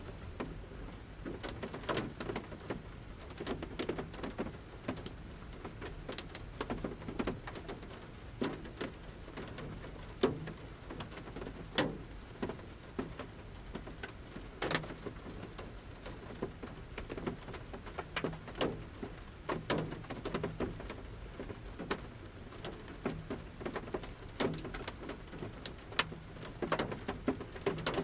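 Large raindrops dripping from the forest canopy onto a camper van's roof, heard from inside the van: separate taps landing at irregular intervals over a faint steady rain.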